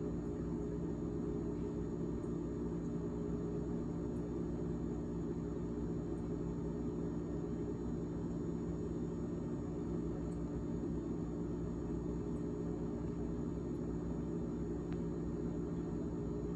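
Fan in a GE GTH18XCTZRBB refrigerator running with a steady, droning hum of several tones.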